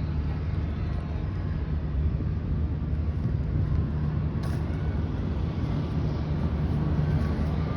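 Steady low hum of running exhaust fans, even and unbroken, with a small click about halfway through.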